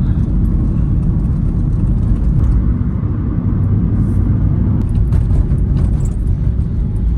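Steady low rumble of a car driving at road speed, engine and tyre noise heard from inside the moving car.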